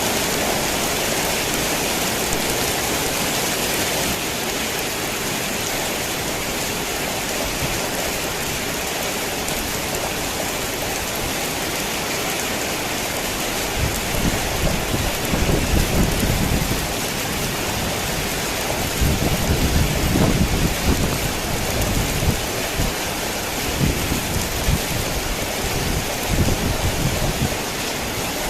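Heavy rain falling steadily on a tin roof. From about halfway through, low thunder rumbles in several rolls, the loudest a few seconds later.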